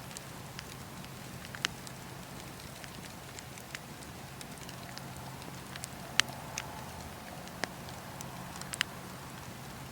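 Wood campfire crackling, with scattered small crackles and a handful of sharp pops, the loudest about six seconds in, over a steady low hum.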